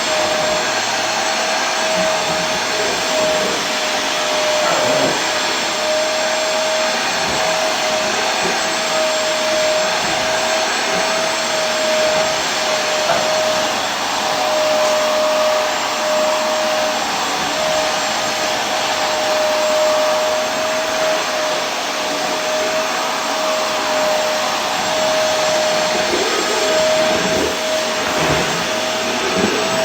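Vacuum cleaner running steadily: an even, loud rushing hiss with a steady motor whine.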